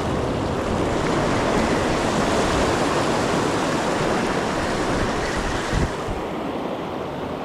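Ocean surf washing on the shore, with wind buffeting the microphone; the wash fades a little after about six seconds, just after a brief low bump.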